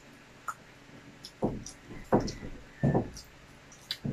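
Close-miked eating sounds: about three louder bites and chews about a second and a half, two and three seconds in, with small mouth clicks between them.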